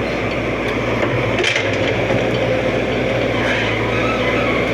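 Excavator engine running steadily, with a single sharp crack about a second and a half in.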